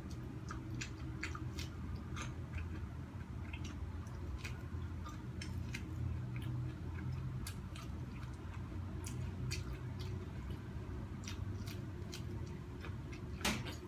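A person biting and chewing corn on the cob: irregular small crunchy clicks of teeth through the kernels, over a steady low hum.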